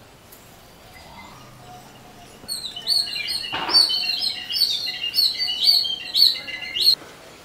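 A songbird sings a fast run of high, repeated chirps for about four seconds, starting a little over two seconds in. Partway through there is a short scrape.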